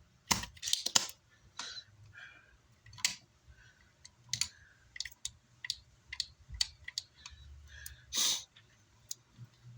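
Irregular sharp clicks and taps of small hand tools working components off an amplifier's circuit board, with a short hiss about eight seconds in.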